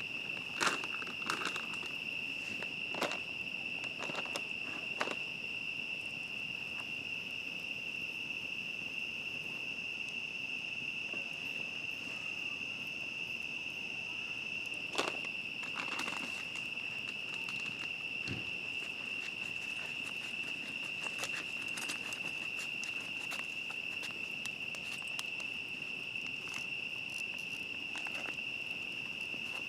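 Night-time crickets chirring in a steady, unbroken high-pitched chorus, with a few sharp crackles and pops from a wood campfire scattered through it.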